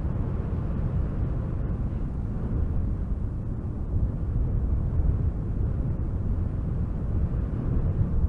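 Strong gusty wind blowing through spruce trees: a steady, deep rushing rumble without a break.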